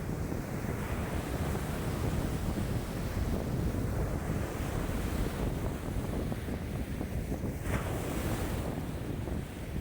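Wind-driven lake waves washing and breaking continuously, with strong wind of about 5 m/s rumbling on the microphone.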